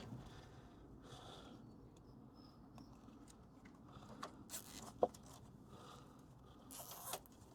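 Faint handling noises as a fuel line is fixed in place: soft rustles and scrapes with a single sharp click about five seconds in.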